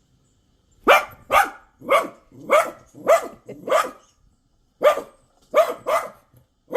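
Cockapoo barking: a quick run of six sharp barks, a pause of about a second, then three more.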